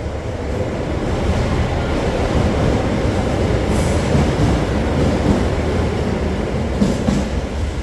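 Train running on the rails: a loud, steady rumble of wheels and rail noise that swells over the first couple of seconds.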